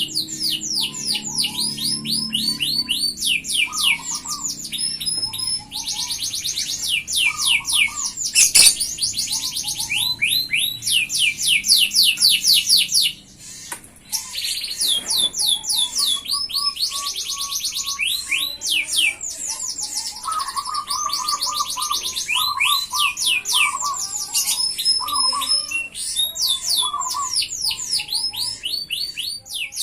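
F1 domestic canary singing in full, prolific song: long runs of fast repeated trills and rolls, with a short break about 13 seconds in.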